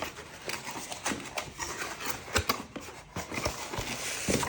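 A product box being opened and handled: irregular taps, knocks and rustling of packaging.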